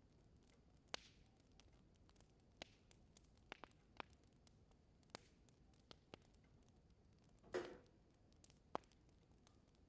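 Wood fire in an indoor fireplace crackling faintly: sparse, sharp pops and snaps, with one longer, louder sputtering pop about seven and a half seconds in.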